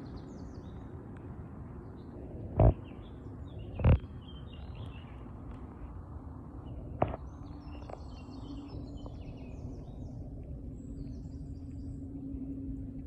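Outdoor ambience: small birds chirping in quick clusters of short high calls through the second half, over a steady low rumble. Two loud thumps about a second apart come early, a fainter click follows mid-way, and a steady low hum comes in about two-thirds through.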